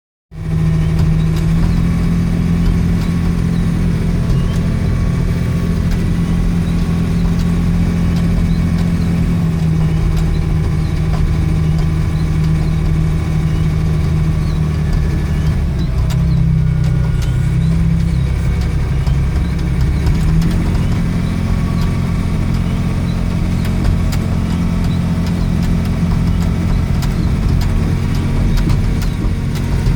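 An engine idling steadily, a low, even hum whose pitch shifts slightly a few times.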